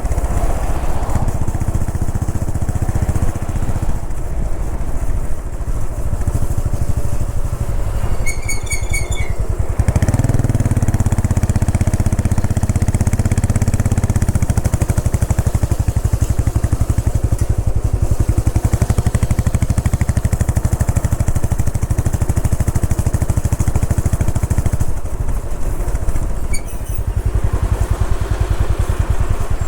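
Royal Enfield Bullet 500 EFI's single-cylinder engine running at highway speed with wind rushing past. The engine grows louder for about four seconds starting about ten seconds in. A short run of high beeps comes about eight seconds in.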